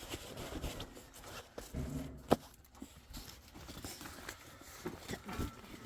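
Rustling and scattered small knocks of people moving about and handling things, with one sharp knock a little over two seconds in.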